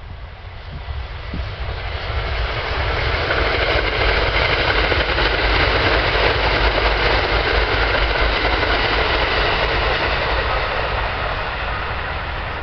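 Kintetsu limited express electric train running by: a steady rushing noise of wheels on rail and running gear that swells over the first few seconds, holds, and eases a little near the end.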